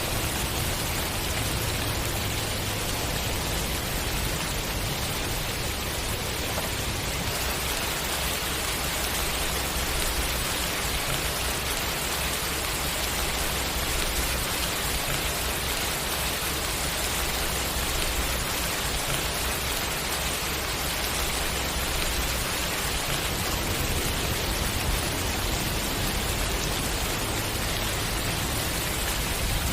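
Steady rain falling, an even hiss of rain on surfaces with a low rumble underneath.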